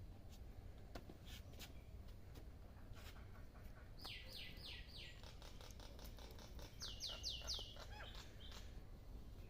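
Martins chirping: two quick runs of four falling notes each, about four seconds in and again about seven seconds in, with faint scattered clicks between.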